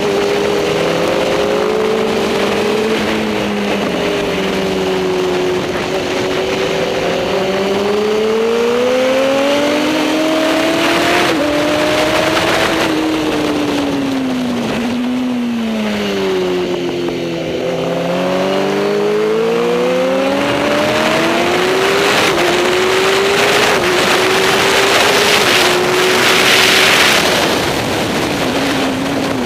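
Superbike racing motorcycle engine at full throttle, its pitch climbing and dropping repeatedly as it shifts gears. It winds down through the gears about halfway through as the bike slows, then climbs again, with a brief rush of noise near the end.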